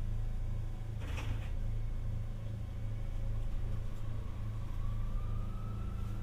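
Tokyu Setagaya Line 300 series tram car heard from inside over its motored bogie: a steady low running hum with a single knock about a second in. From about four seconds in, a thin traction-motor whine rises steadily in pitch as the car picks up speed.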